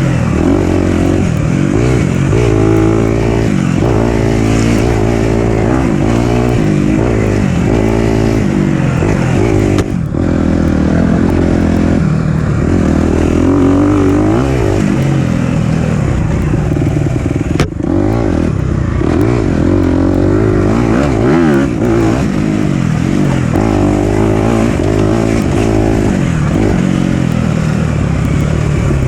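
Four-stroke dirt bike engine ridden on a trail, its revs rising and falling constantly as the rider works the throttle and gears. There is a short drop in revs about a third of the way through and a single sharp knock a little past the middle.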